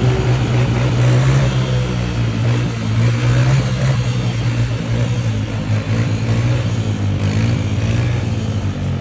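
Small single-cylinder mini bike engine running steadily under throttle, its note wavering slightly, with wind rushing over the microphone.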